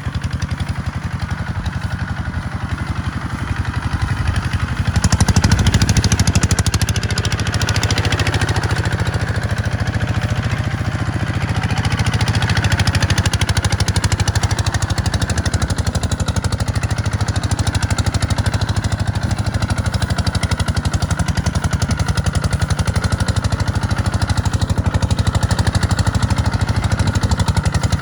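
Kubota tractor's diesel engine running steadily under working load, getting louder about five seconds in.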